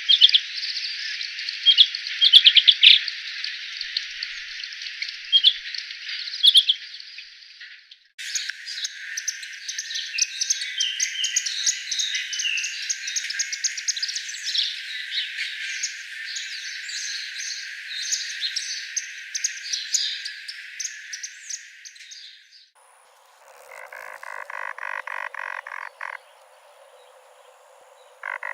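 Wild animal sounds in three separately recorded clips: first a steady high insect hiss with a few sharp bird chirps, then a dense chorus of quick bird calls, then, after a short pause, a rapid pulsed croaking call for about three seconds.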